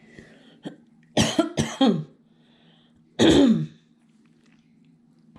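A woman coughing with a sinus infection: a quick run of two or three coughs about a second in, then one more loud cough about three seconds in.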